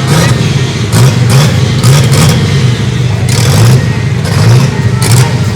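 Drag car engine revving in repeated blips, its pitch rising and falling again and again, with several sharp pops or cracks among the revs.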